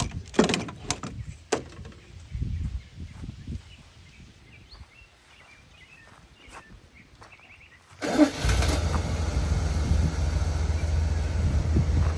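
1989 Dodge D100 pickup's engine starting up about eight seconds in and then running steadily. Before that, a few knocks and handling sounds, then faint bird chirps.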